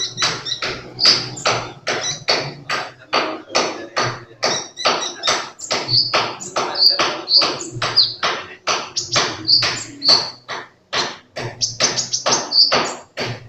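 Sunbird (kolibri) singing actively, a fast run of short, sharp chirping notes, about three to four a second.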